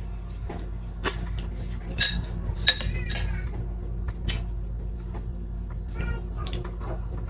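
Cutlery and dishes clinking while eating: a few sharp clinks, two of them ringing briefly, over a steady low hum.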